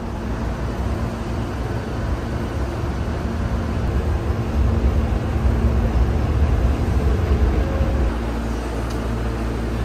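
Hankyu electric train running: a heavy low rumble with a faint steady hum, growing louder through the middle and dropping off abruptly near the end.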